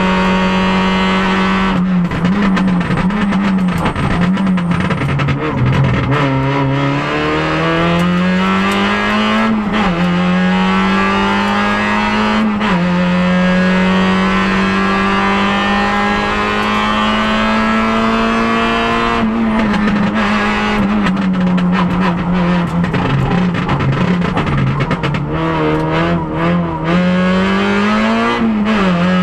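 Peugeot 106 N1600 rally car's 1.6-litre four-cylinder engine, heard from inside the cabin, revving hard under full load. The note climbs and holds high, drops sharply at each gear change, and wavers up and down repeatedly near the end as the car brakes and shifts for bends.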